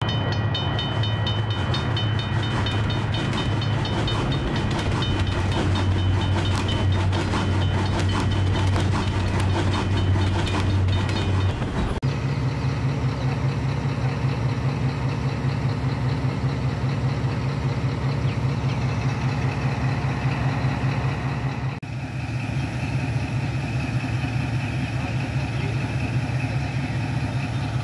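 A Pakistan Railways diesel locomotive and passenger coaches running past, with a steady low drone. The sound changes abruptly about 12 seconds in and again near 22 seconds, as separate recordings are cut together.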